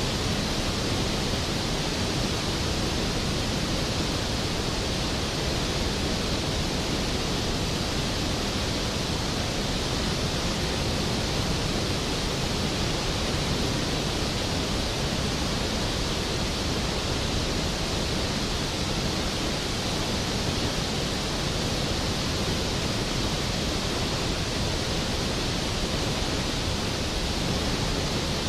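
Skógafoss, a large waterfall, pouring in a steady, even roar of falling water with no change throughout.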